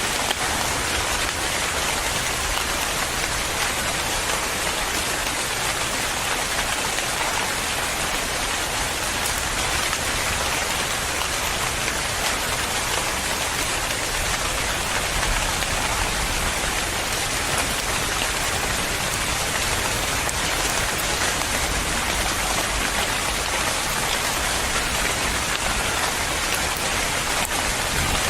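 Steady rain falling on a surface, an even hiss of many drops with no changes.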